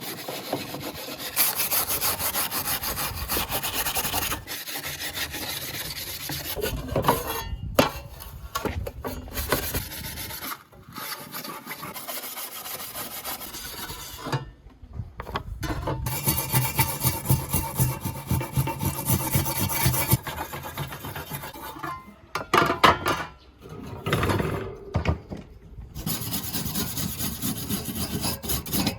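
Abrasive hand scraping and rubbing on metal, as when rust is worked off old fan parts, in stretches broken by several abrupt cuts.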